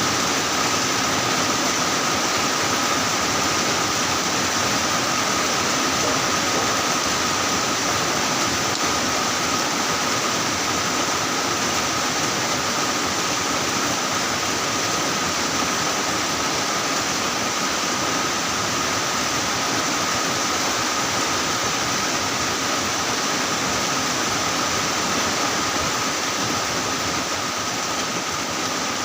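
Heavy rain falling in a steady, unbroken downpour. A thin, steady high tone sits under the rain's hiss.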